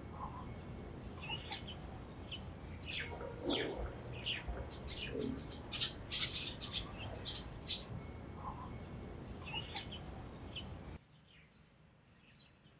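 Small birds chirping, many short high calls scattered over a low steady outdoor hum; the sound falls away to near silence about eleven seconds in.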